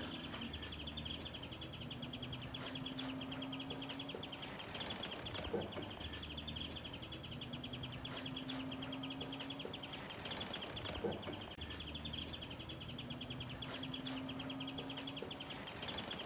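Japanese white-eye giving a continuous string of rapid, high chirps: the agitated alarm calls of a parent bird with a grounded chick.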